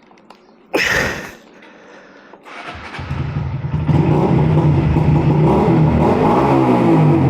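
A short, loud burst of noise about a second in, then the 2022 Honda Grom's small single-cylinder engine starts about three seconds in and runs steadily and loudly, its pitch wavering a little as it is given some throttle.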